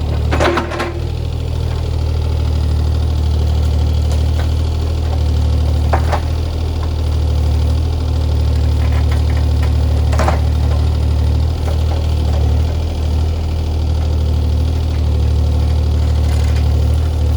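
Diesel engine of a CAT 303C CR mini excavator running steadily at work clearing brush, with a few brief clunks about half a second, six and ten seconds in.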